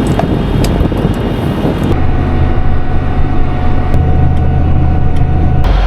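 Vehicle engine running, a rough rumble at first, then from about two seconds in a steady drone with a thin steady whine over it, which cuts off abruptly near the end.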